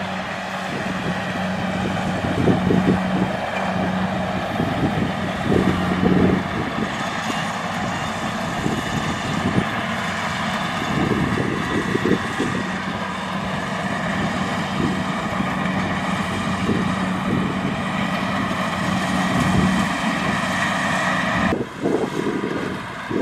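Kubota DC-70 Plus rice combine harvester running steadily under load, its diesel engine humming with a thin steady high whine above it. The sound changes abruptly near the end.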